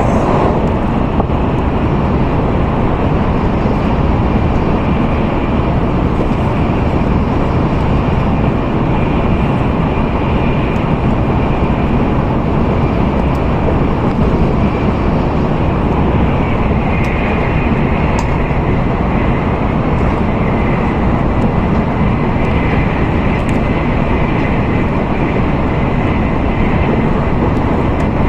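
Steady running noise of an N700A Shinkansen train at speed, heard inside the passenger cabin: an even rumble and rush of wheels and air, with a faint high hum that swells and fades a few times.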